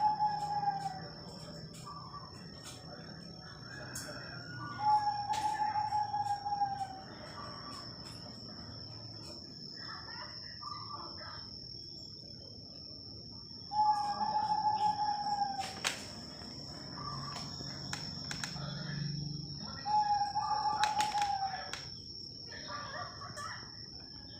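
Young Bangkok-type zebra dove (perkutut) singing its cooing song in four phrases, each about two seconds long and spaced several seconds apart, over a steady high-pitched whine.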